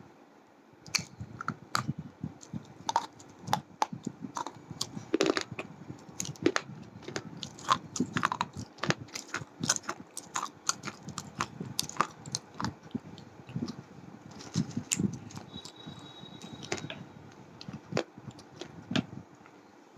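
A person biting and chewing hard slate pencils close to the microphone: a run of sharp, irregular cracks and crunches, several a second, with quieter grinding between them.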